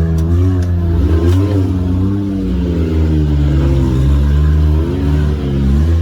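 A Can-Am Maverick X3 side-by-side's three-cylinder engine revving as the throttle is worked, its pitch rising and falling again and again, with a few light knocks in the first second or so.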